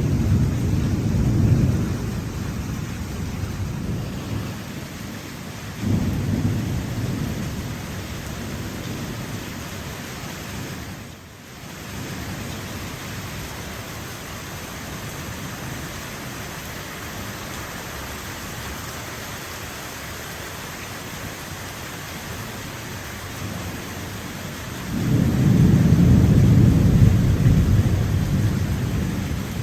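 Steady heavy rain from a thunderstorm with rolling thunder: low rumbles at the start and about six seconds in, then a longer, louder rumble near the end.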